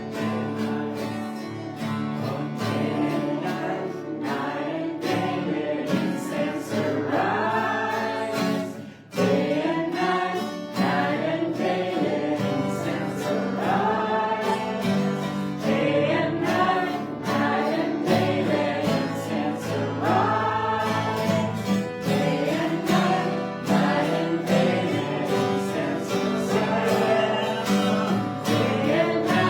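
Worship song: a group of voices singing over instrumental accompaniment with a steady beat, dropping away briefly about nine seconds in.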